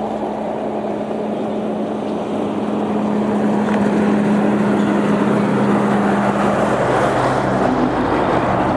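Amtrak train led by two GE P42DC diesel locomotives working upgrade, their engines running with a steady hum as the train draws nearer, growing louder over the first few seconds and then holding.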